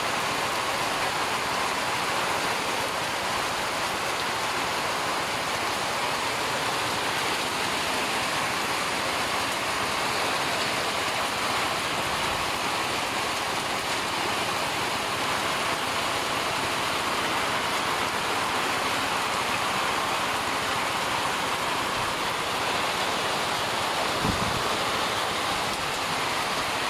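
Steady rain falling, a constant even hiss with no let-up. A brief low thump about 24 seconds in.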